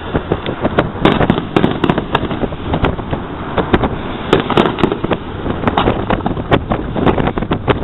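Fireworks display: shells and effects bursting in a rapid, irregular string of bangs and crackles, several a second.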